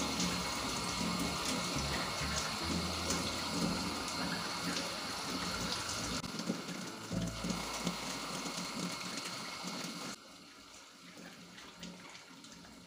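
Water running from a tap into a sink, stopping about ten seconds in, with soft background music underneath.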